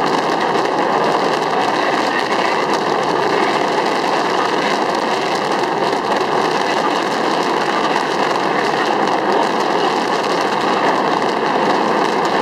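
A dense, unbroken barrage of fireworks, many shells and fountains crackling and popping at once as one steady roar, with no single bang standing out.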